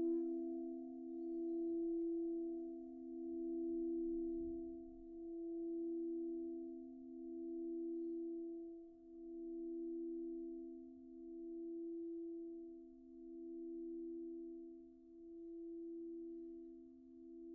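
Singing bowl ringing on after being struck or played, its tone wavering in slow pulses about every two seconds and slowly fading.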